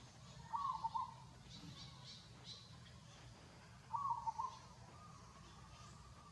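An animal's short calls, twice: each a quick run of a few notes at the same middle pitch, with faint high chirps in the background.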